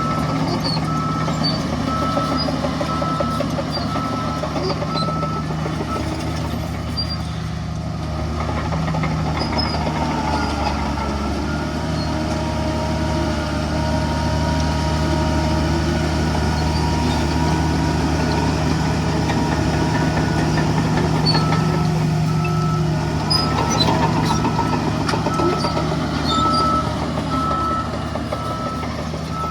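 Heavy diesel earthmoving machinery running, its engine working harder through the middle stretch, with a reversing alarm beeping steadily at the start and again near the end as a machine backs up.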